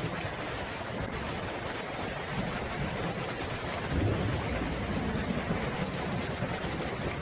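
Steady rain hissing, with a low roll of distant thunder rising about four seconds in and rumbling on for a couple of seconds.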